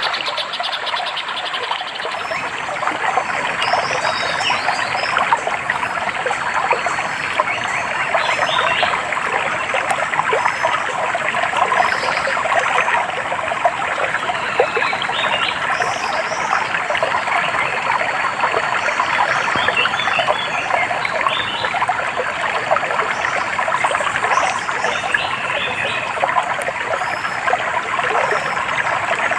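Water trickling and running steadily in a stream, with short high bird chirps scattered throughout.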